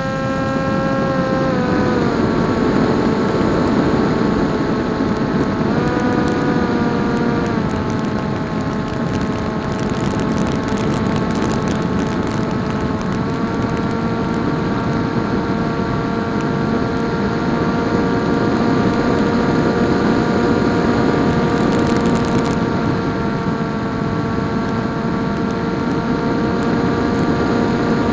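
Electric RC flying wing in flight: the motor and propeller whine at a steady pitch with a rushing air noise underneath. The pitch drops about two seconds in, briefly rises and falls again around six seconds, and steps back up near the middle as the throttle changes, then holds steady.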